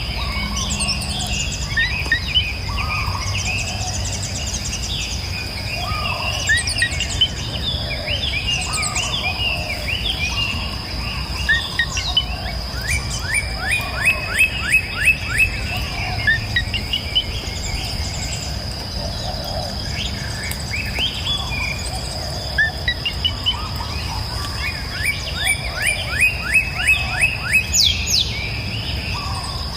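Several songbirds singing and chirping, with repeated fast trills of short falling notes, over a steady high-pitched tone and a low, even rush of flowing river water.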